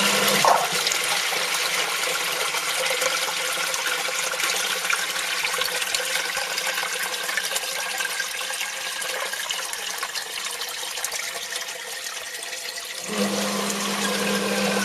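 Sump pump motor humming steadily, then cutting off about half a second in, leaving water rushing and splashing into the pit; the motor hums back on about a second and a half before the end. The pump is six months old, and the owner says it keeps sticking and that the pit gets inundated with water.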